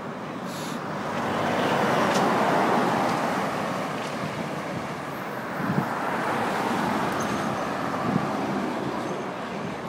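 Road traffic: vehicles passing, a steady rushing noise that swells and fades, loudest about two seconds in and again around seven seconds.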